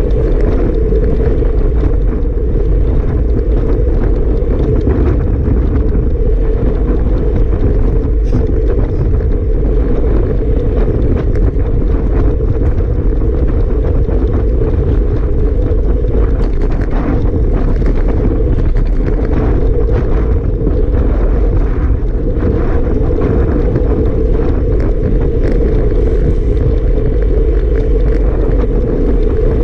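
Strong wind blasting across the microphone: a loud, steady low rumble with scattered brief crackles.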